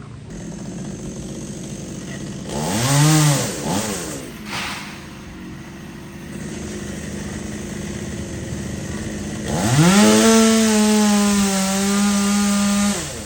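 Chainsaw idling, revved up and back down briefly about two and a half seconds in, then opened up again near the ten-second mark and held at high speed for about three seconds before dropping back to idle.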